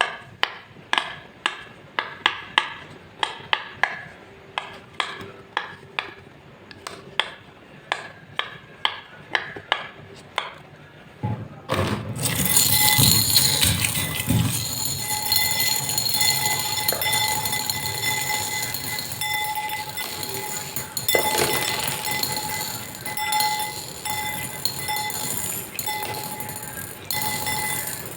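A rapid series of sharp clinks of hard objects, about two a second, each with a short ring. About halfway through they give way to a louder continuous dense noise with steady ringing tones through it.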